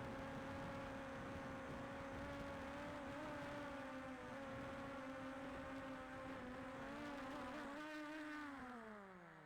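DJI Air 2S quadcopter's propellers buzzing at a steady pitch, then winding down in a smooth falling whine near the end as the motors stop.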